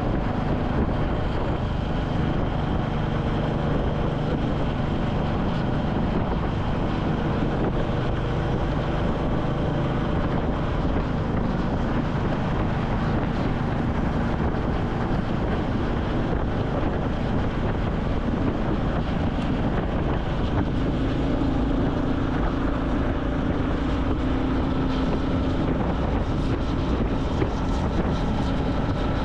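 Royal Enfield Classic 350's single-cylinder engine running steadily while riding, under steady wind noise on the microphone; the engine note changes pitch about two-thirds of the way through.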